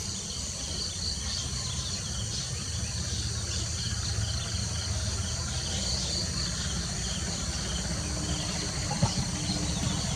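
Insects chirping steadily in repeating high bands over a low steady rumble, with a brief tick about nine seconds in.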